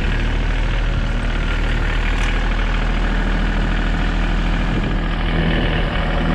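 Rollback tow truck's engine running steadily while the truck pulls the stuck Kubota garden tractor up the bank.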